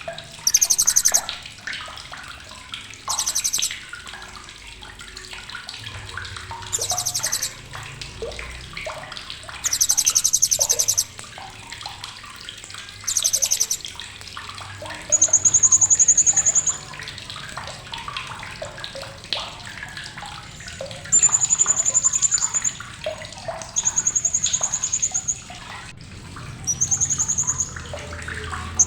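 Blue-crowned hanging parrot (srindit) giving sharp, high-pitched chattering calls. Rapid buzzy trills about a second long repeat every few seconds, and from about halfway through they give way to clear, shrill held notes.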